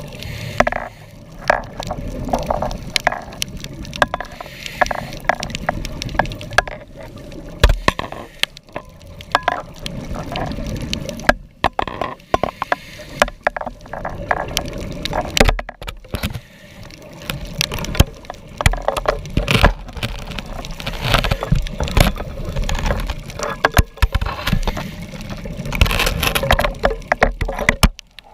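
Underwater bubbling and gurgling from a scuba diver's regulator exhaust, coming in irregular bursts with sharp clicks and crackles.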